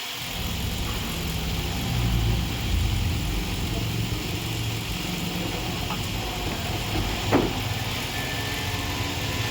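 Car engine running with a steady low hum, a little louder about two seconds in. There is one brief sharp sound about seven seconds in.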